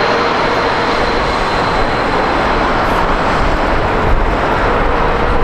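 Jet airliner engines close by: a loud, steady rushing noise with a faint held tone, and a deeper low rumble growing stronger near the end.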